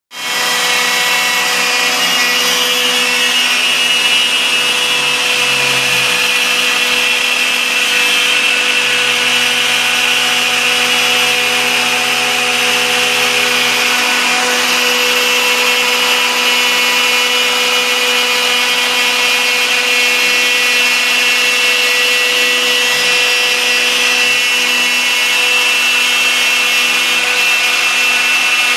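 CNC router running, with a steady high whine from its spindle. Beneath it a lower hum shifts pitch in steps every few seconds as the axis motors move at changing speeds.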